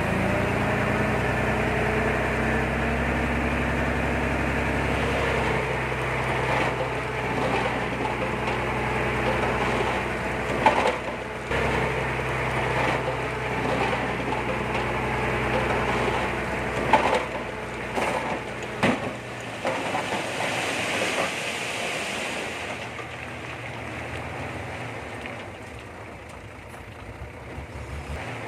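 Komatsu D20P bulldozer's diesel engine running steadily, with several sharp knocks in the middle. About two-thirds of the way through, the engine sound drops away and grows quieter.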